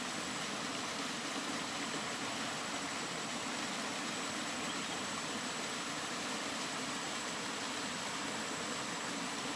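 Steady, continuous rain noise: an even hiss with no single drops or other events standing out.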